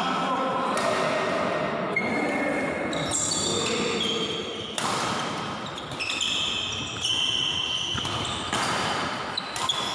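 Badminton rally in a large indoor hall: sharp racket hits on the shuttlecock about every one to one and a half seconds, with short high squeaks of shoes on the court floor.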